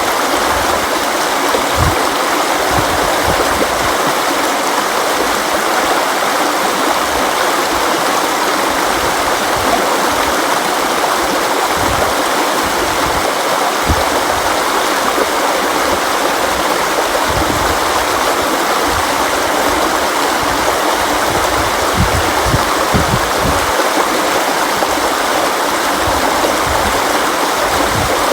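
River water flowing in a steady, constant rush, with scattered low gurgles.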